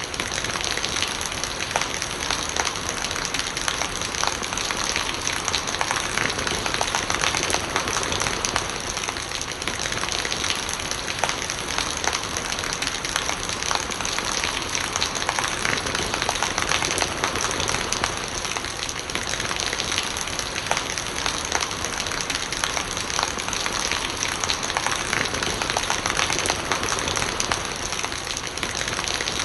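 Steady rain falling, with a dense run of small drop impacts and no let-up.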